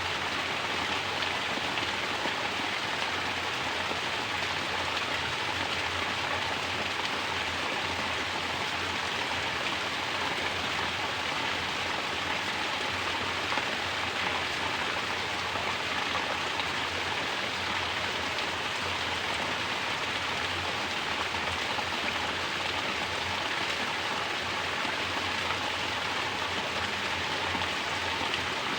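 Mountain water falling steadily from a natural shower and splashing, an even, unbroken rush of water.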